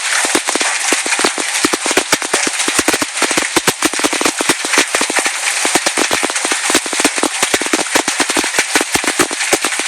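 Large hailstones striking hard and without letup: a dense, irregular clatter of many sharp impacts every second.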